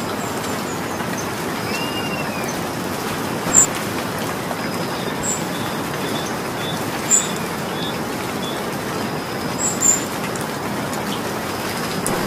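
Steady rain falling, with birds calling over it: an arched whistle about two seconds in, a run of short quick notes in the middle, and several sharp high chirps that stand out as the loudest moments.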